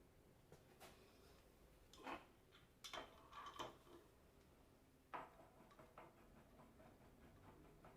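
Near silence with a few faint, short metallic clicks and knocks, about four in all, from alternator parts being handled and set up at a press.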